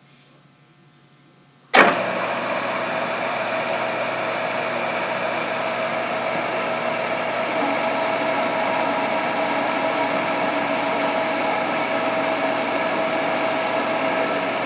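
Grizzly G4003G gearhead metal lathe switched on about two seconds in, then running steadily with a constant whine from its geared headstock.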